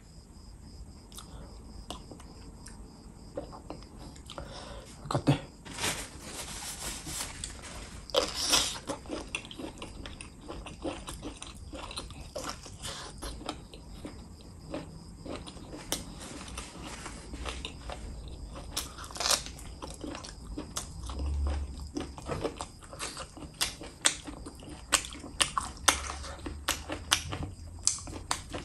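Chewing and biting into chicken gizzard close to the microphone, with wet crunches and sharp, irregular mouth clicks throughout.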